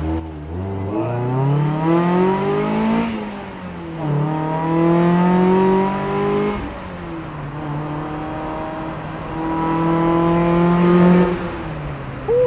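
Mazda Miata NB engine and exhaust under hard acceleration. The revs climb for about three seconds and drop sharply, as at an upshift. They then hold high twice more, each pull ending in a sudden drop.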